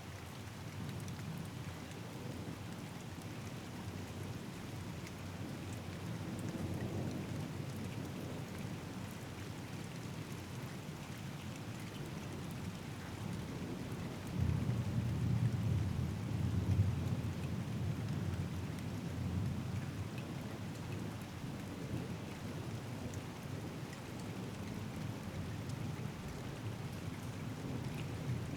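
Steady rain with thunder rumbling. A faint roll comes early, then about halfway through a louder peal starts suddenly, rumbles low for several seconds and fades back under the rain.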